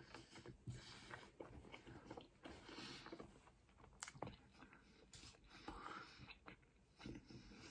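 Faint chewing of a mouthful of pizza, with a scatter of small mouth clicks.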